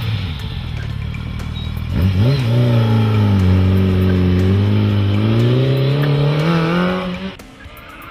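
The CG Quadster's BMW K1200S inline-four engine running under way. Its note falls at first, jumps up sharply about two seconds in, then dips and climbs steadily as the revs build. It cuts off abruptly near the end.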